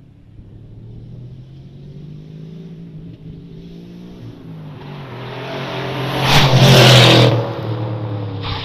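Subaru Legacy B4 Blitzen's twin-turbo flat-four engine pulling hard, its sound building steadily to a loud, rushing peak about six to seven seconds in, then easing off.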